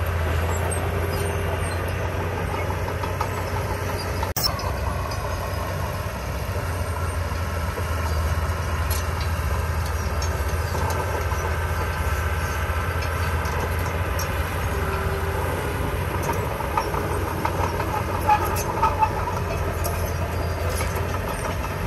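Heavy earthmoving machinery's diesel engine running steadily under work, with a low, even drone. A sharp click about four seconds in and a few brief sharp sounds near the end.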